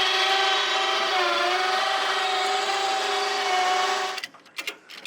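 A small motor whining steadily at one pitch, dipping slightly about a second in, then cutting off abruptly about four seconds in, followed by a few sharp clicks.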